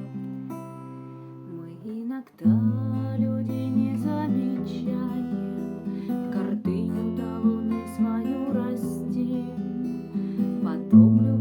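Acoustic guitar music with strummed chords over a changing bass line. It plays quietly at first, then grows louder and fuller about two seconds in.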